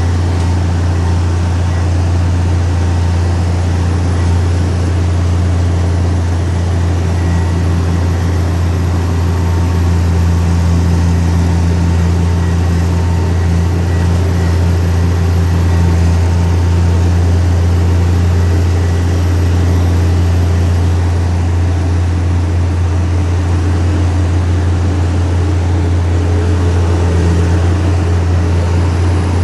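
Heavy diesel engine of earthmoving machinery running steadily at a constant speed, a deep even drone with no change in pitch.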